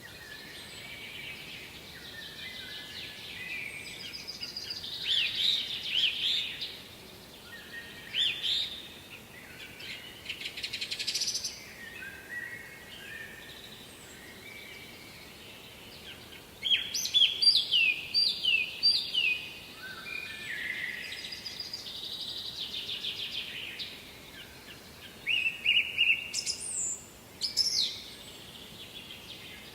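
Songbirds singing: repeated phrases of quick high chirps and trills, with the busiest, loudest runs of notes about halfway through and again near the end, over a faint steady hiss.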